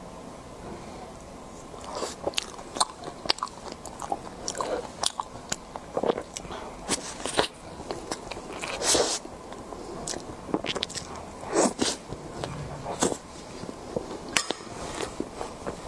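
Close-miked eating: bites and chewing with many sharp mouth clicks, starting about two seconds in.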